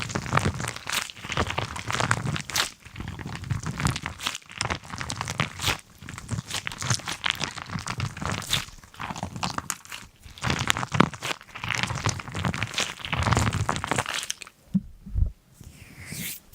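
Crinkling and crunching handling noise, coming in irregular bursts with short pauses between them.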